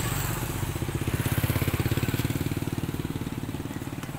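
Small motorcycle engine passing close by, its rapid putter growing louder over the first second and a half and then fading.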